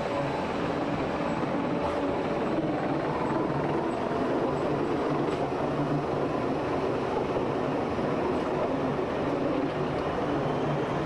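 Train running steadily: a continuous, even running noise with no distinct clatter or speech. Most likely the Pilatus-Bahn cog railway railcar on its climb.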